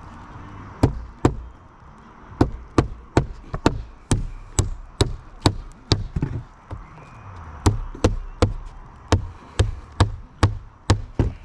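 Hammer driving roofing nails into shingles: a steady run of sharp strikes about two to three a second, pausing briefly about a second in and again around six seconds in.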